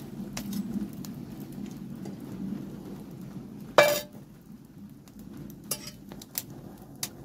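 Metal cookware clinking and scraping by a wood fire, with one loud ringing clang about halfway through and a few lighter clicks after it.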